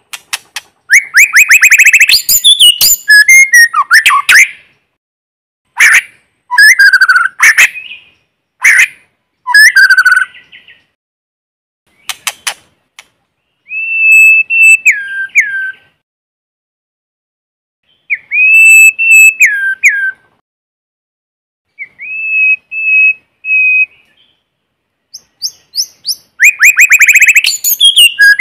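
White-rumped shama singing: bursts of rapid trills and sharp chattering notes, then clear whistled phrases that hold a note and drop in pitch, with short silences between phrases.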